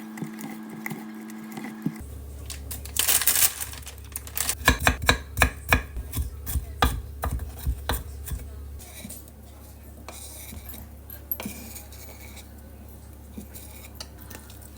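Kitchen clatter: a brief rustle, then a run of irregular knocks and clicks of dishes and utensils being handled, thinning to occasional clicks after about nine seconds.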